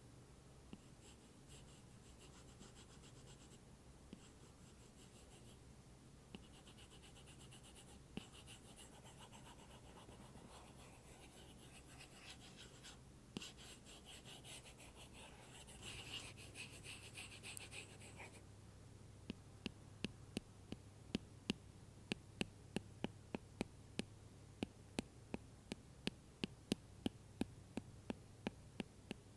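Apple Pencil scratching and rubbing across an iPad cover, then, from about two-thirds of the way in, tapping on it in quick sharp taps, two to three a second.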